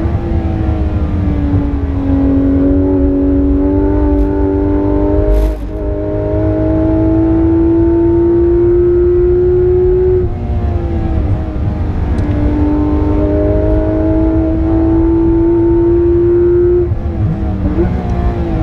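Porsche 911 GT3 RS's naturally aspirated flat-six heard from inside the cabin under hard acceleration, its pitch climbing steadily. There is a sharp gearshift click about five seconds in, a lift of the throttle about ten seconds in, and a second long pull. Near the end come quick throttle blips on downshifts, all over a constant low rumble of road noise.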